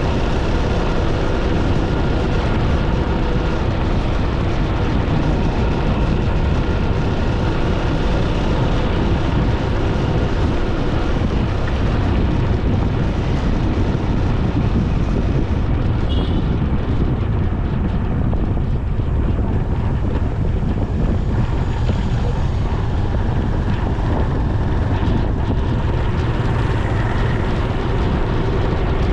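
Steady wind rush on the microphone during a road ride, with a vehicle's running hum and a few faint steady tones underneath.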